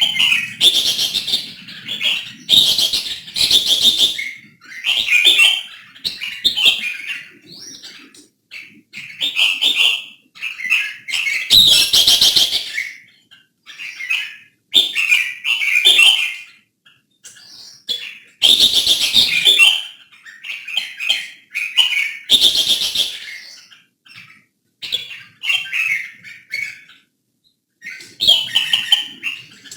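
Red-whiskered bulbul singing loud, warbling song phrases about a second long, one after another with short pauses between them.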